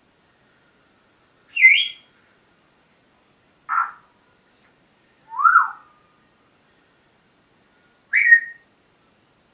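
Pet parrot giving short whistles and squawky calls, five separate calls spaced one to two and a half seconds apart, one a brief high whistle.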